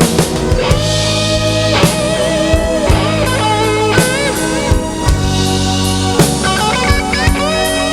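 Instrumental break in a blues-rock song: a lead guitar plays held notes that bend and waver in pitch, over bass and a drum kit keeping time.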